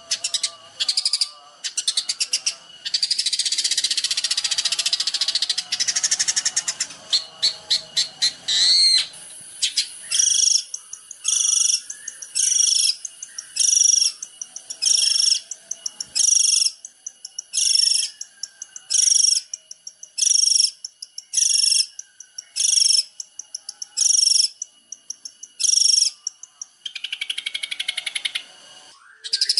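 A songbird singing in bursts of rapid trills and dense, scratchy chatter. In the middle it repeats one short, high, bright note about a dozen times, a little over a second apart. Near the end it breaks into scratchy chatter again.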